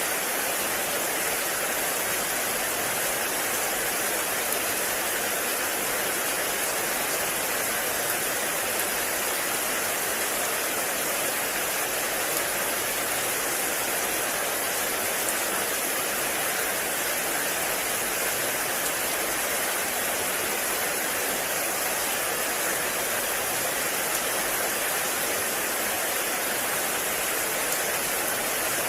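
Heavy rain falling steadily in a forest, a constant even hiss of rain on leaves and ground.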